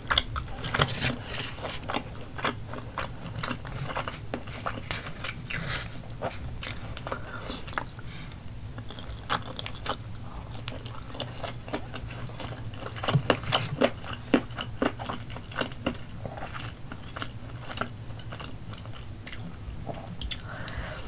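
Close-miked chewing and biting of roasted chicken: wet mouth sounds with many small clicks and crunches, and a run of louder clicks about two-thirds of the way through.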